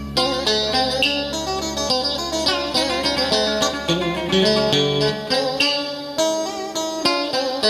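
Instrumental cải lương accompaniment: a plucked guitar melody with wavering, bent notes over a low held bass that drops out about five seconds in.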